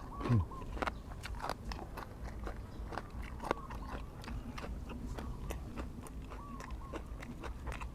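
Close-up chewing and crunching of grilled chicken with papaya salad, many small wet bites and clicks, with a brief low vocal sound from the eater about a third of a second in.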